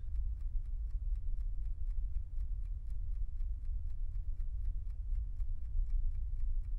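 A clock ticking quickly and evenly over a steady low hum.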